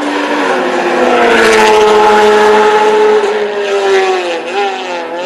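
A racing vehicle's engine passing at speed: its pitch climbs, holds while it is loudest, then sags and wavers near the end as it moves away.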